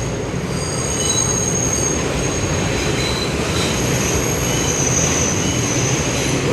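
Train running on its rails, heard from inside the car: a steady rumble, with thin high wheel squeal coming in about a second in and fading out near the end.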